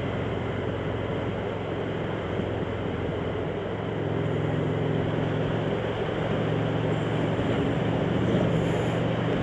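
Motorcycle engine running steadily while riding, with wind and road rush; the engine note gets a little louder about four seconds in.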